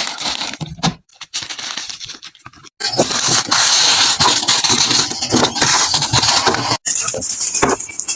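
Snack packaging being handled during restocking: plastic wrappers rustling and tearing, with a patter of small knocks. It is quieter and broken for the first few seconds, then louder and continuous from about three seconds in.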